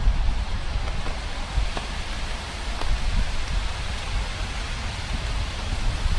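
Steady rain falling, an even hiss with a few faint drop ticks and a low rumble underneath.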